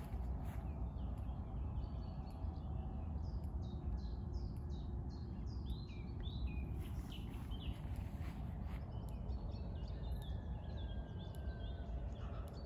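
Small songbirds chirping and singing with many short, quick notes and one longer even whistle near the end, over a steady low rumble of background noise.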